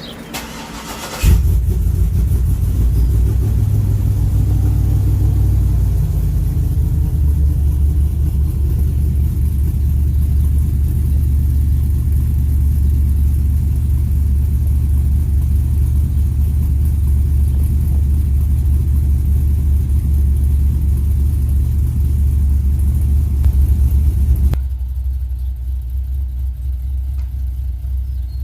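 Cold start of a cammed GMC Denali V8: the starter cranks briefly, the engine catches about a second in with a rev flare, then settles into a loud, steady high idle with the choppy lope of an aftermarket camshaft. Near the end the sound turns quieter and more muffled.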